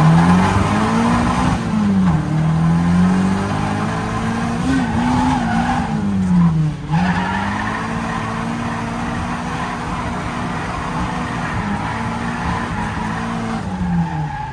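A Nissan 240SX's turbocharged CA18DET four-cylinder revving up and down hard through a drift, with tyres squealing. The revs drop sharply about two seconds in and again about seven seconds in.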